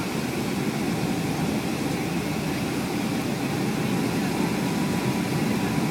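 Steady low rumble of engine and airflow noise inside the cabin of a Boeing 757-200 in flight.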